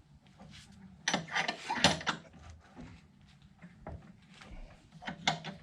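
Metal clicking and clattering from working a U-joint bearing cap into a driveshaft yoke. A dense run of sharp knocks lasts about a second, starting about a second in, followed by a few scattered clicks.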